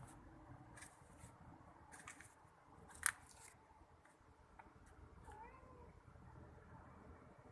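A cat gives one faint, short meow about five and a half seconds in. A few small clicks are scattered through, with one sharp click about three seconds in.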